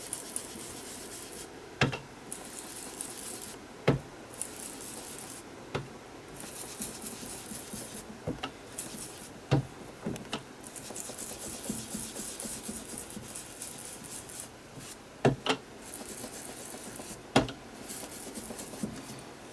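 Ink blending tool scrubbing Distress Ink onto a paper journal page in repeated rubbing strokes that come and go, broken by about six sharp taps.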